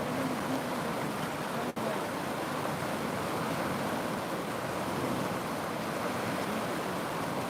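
River water rushing steadily, with a split-second dropout about two seconds in.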